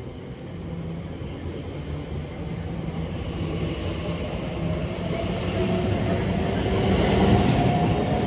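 Class 345 Elizabeth line electric train running past on the track, its rumble and motor hum growing louder and peaking near the end.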